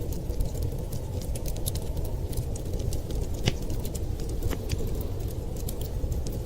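Wood fire crackling: many small sharp pops and ticks, one louder pop about three and a half seconds in, over a steady low rumble.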